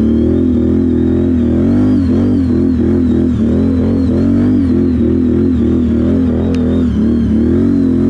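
ATV engine running hard under throttle, its pitch rising and falling over and over as the revs surge and drop.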